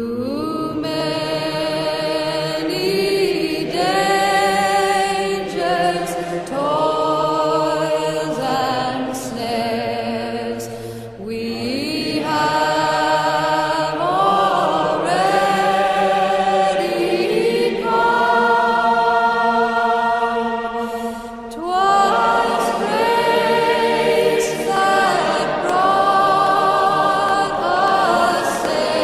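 Choral music: several voices singing slow, held phrases with vibrato, swelling and falling back, with a fresh loud entry about two-thirds of the way through.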